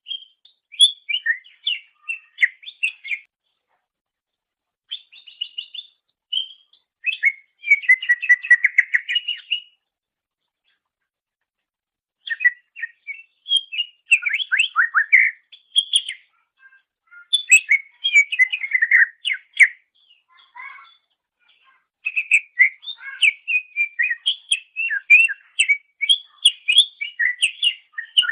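Greater green leafbird (cucak ijo) singing: rapid, varied whistled and chattering phrases in bursts of a few seconds, broken by short silent gaps.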